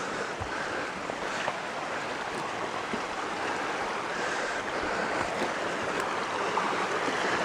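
Stream water rushing steadily, growing a little louder toward the end, with a few faint low thumps.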